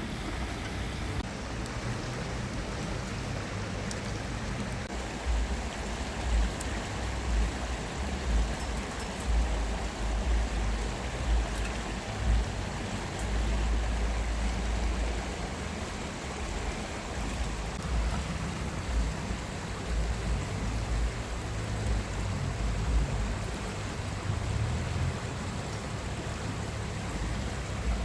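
Steady rush of a flowing stream, with a low, uneven rumble underneath.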